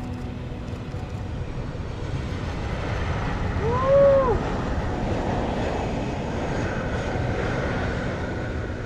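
Jet aircraft engine noise, a steady rushing sound that swells gradually and then holds. About four seconds in, a brief rising-and-falling whoop rings out over it.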